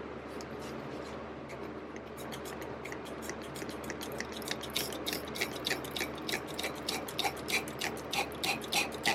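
Hand spray bottle squeezed over and over, about three short sprays a second and growing louder, squirting water into the intake port of a Honda TRX250EX cylinder head to test whether the intake valve seals.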